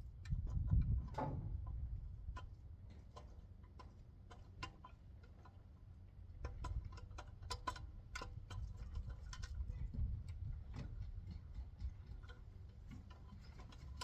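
Scattered, irregular light clicks and taps over a low rumble, with a louder cluster about a second in.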